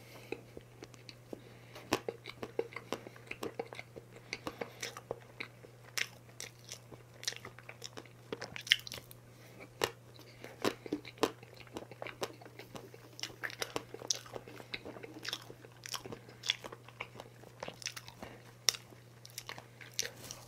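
Close-miked chewing of chocolate cake, with many irregular wet mouth clicks and smacks.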